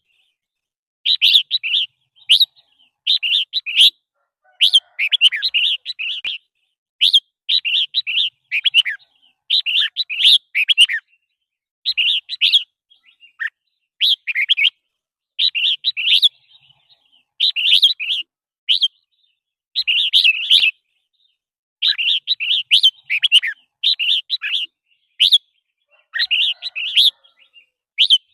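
Red-whiskered bulbul singing: short, bright, chirpy phrases about a second long, repeated again and again with brief pauses between them.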